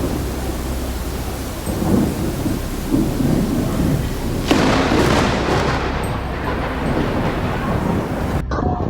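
Thunderstorm: heavy rain hiss with rumbling thunder, and a sharper, louder crack of thunder about four and a half seconds in.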